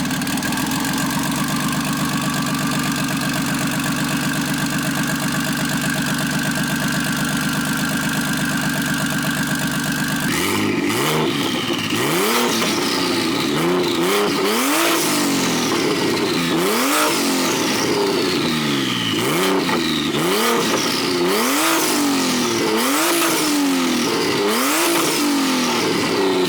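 BMW 335i's N54 turbocharged straight-six running at a steady idle, then from about ten seconds in blipped over and over, its pitch rising and falling every second or two.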